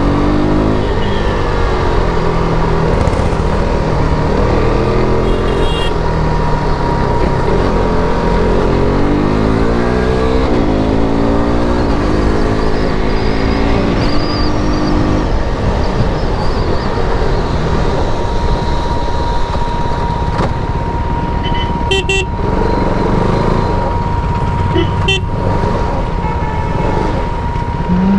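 KTM RC 390's single-cylinder engine through its stock exhaust, revving up and dropping back again and again as the bike accelerates through the gears, then running more steadily, over a rush of wind and road noise.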